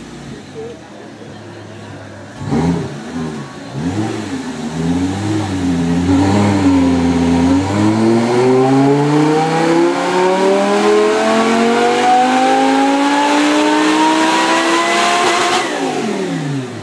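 Supercharged Audi R8 engine on a dyno. It gives a few short throttle blips, then a long full-throttle pull in which the revs rise steadily for about eight seconds. The throttle then closes abruptly and the revs fall away.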